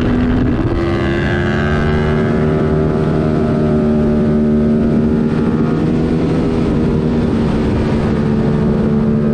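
2022 Yamaha R7's 689 cc parallel-twin engine, airbox removed, running hard through a MIVV Delta Race exhaust. Its pitch steps up about half a second in, then holds at high revs.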